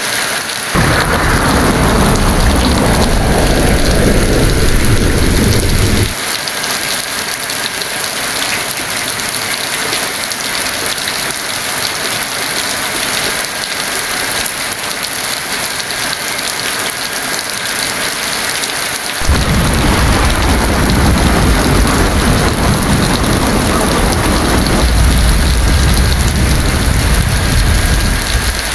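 Heavy rain falling steadily with two rolls of thunder. The first begins about a second in and rumbles for some five seconds before cutting off abruptly. The second starts about two-thirds of the way through and rumbles on until near the end.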